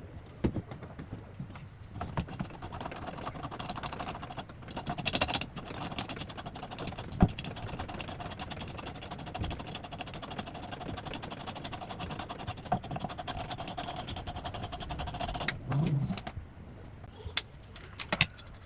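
Metal clicks, clinks and scrapes of pliers and an adjustable wrench working on faucet supply-line fittings. A steady hiss with a faint hum runs behind them and cuts off a couple of seconds before the end.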